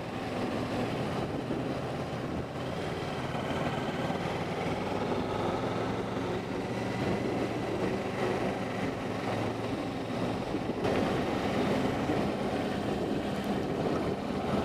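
Kawasaki Versys 650 parallel-twin motorcycle engine running steadily while riding, heard from a helmet camera with wind and road noise over it; it gets a little louder about eleven seconds in.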